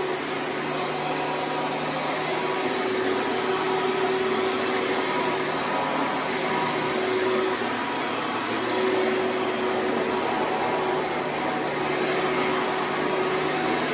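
Hoover Preferred upright vacuum cleaner running, a loud steady rush of air over a constant motor hum that drops away for about a second midway.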